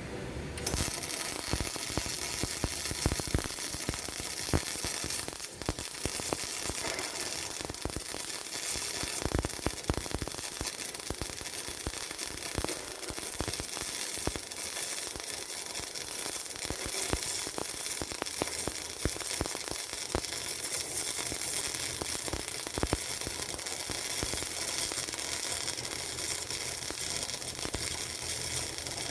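MIG welding arc on steel pipe, a steady crackling sizzle with many sharp pops, starting about half a second in.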